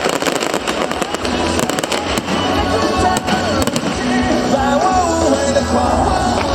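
Aerial fireworks going off in rapid bangs and crackles over loud music, with a sung melody coming through in the second half. The bangs are thickest in the first few seconds.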